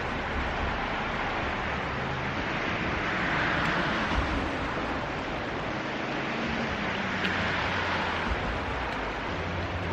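Rising mountain river rushing over rapids: a steady, even rush of water.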